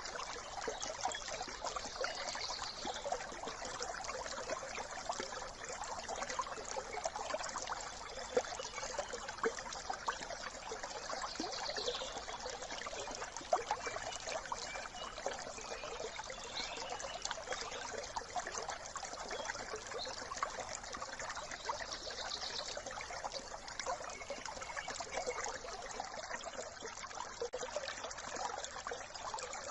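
Small brook trickling and running in a steady rush, with a few brief bird calls.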